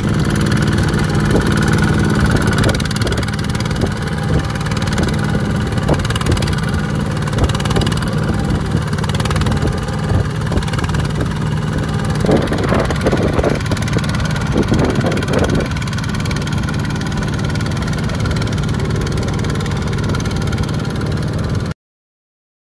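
Small farm tractor engine running steadily, with a few clanking knocks around the middle; the sound cuts off suddenly near the end.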